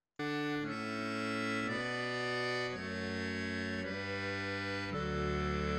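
Solo accordion playing sustained chords over bass notes, the chords changing about once a second; it starts suddenly about a fifth of a second in.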